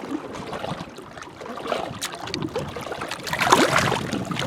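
Small waves lapping and sloshing against rocks at the water's edge, with a louder splash about three and a half seconds in.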